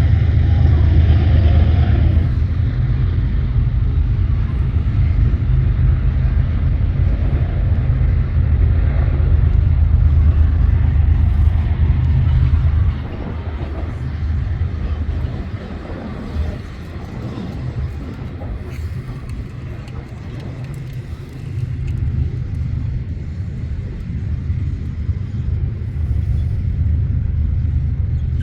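Freight train with diesel locomotives passing, a loud, steady low rumble. It eases off about halfway through and builds up again near the end.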